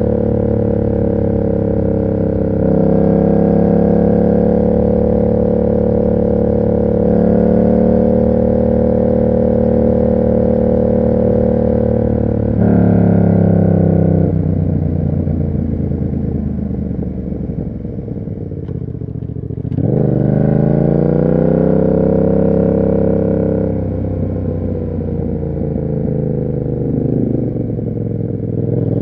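Yamaha MT-07's parallel-twin engine through an SC Project exhaust, riding at steady throttle. About halfway through the revs fall as the throttle closes and the bike slows. The revs then climb again under acceleration about two-thirds of the way in.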